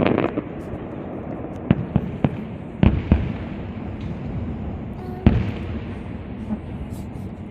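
Fireworks castillo display: a string of sharp bangs from shells bursting, the loudest about three seconds and five seconds in, over a steady noisy background.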